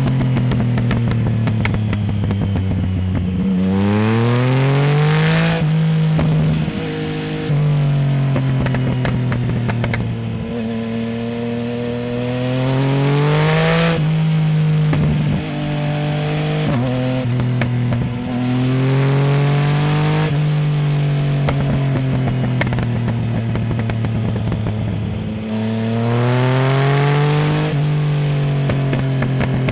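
Yamaha Tracer 900 GT's three-cylinder engine through a full Roads Italia aftermarket exhaust without its dB killer, pulling hard several times, its pitch climbing and then dropping sharply at each upshift, with steadier running and engine braking in between.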